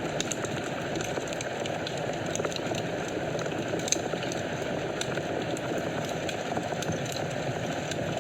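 Wood fire in a fireplace crackling: frequent small pops over a steady hiss of flames, with one louder snap about four seconds in.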